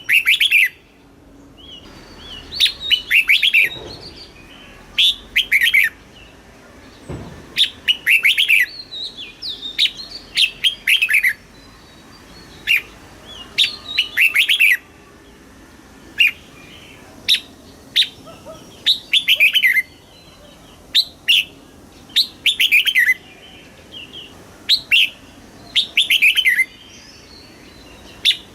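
Red-whiskered bulbul singing: short, bright, warbling phrases repeated every second or two.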